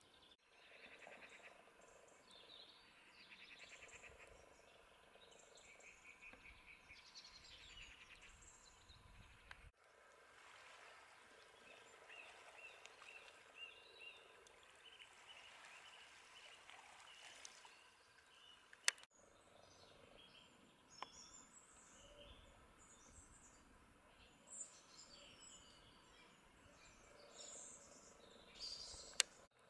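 Faint birdsong: small birds chirping and trilling in short phrases. A sharp click about two-thirds of the way through and another near the end are the loudest sounds.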